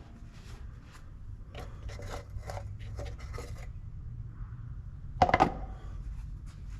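A run of light knocks and clicks, then a louder double knock about five seconds in, over a low steady rumble.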